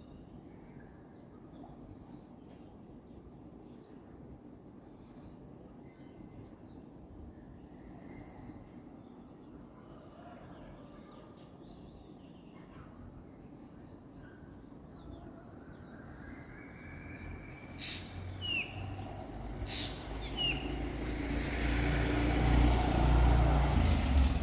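Birds chirping in short calls over a steady high insect drone. In the second half a vehicle approaches, its low rumble swelling until it is the loudest sound near the end.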